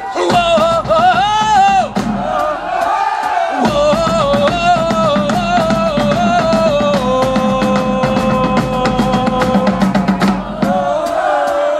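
Live Celtic tribal rock from bagpipes and pounding drums: the pipes play a melody over a steady drumbeat, then hold one long note for about three seconds before moving on.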